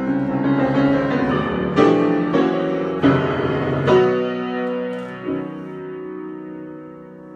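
Solo piano improvisation: a few struck chords, the last one about four seconds in held and left to ring and fade.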